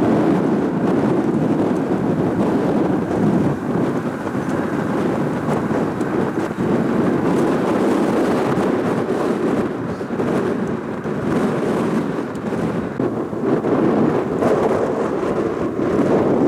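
Strong wind buffeting the microphone: a loud, rumbling noise that swells and drops in gusts.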